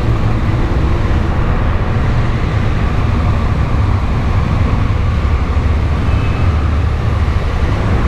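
Motor vehicle engine running steadily at low speed, a deep even rumble.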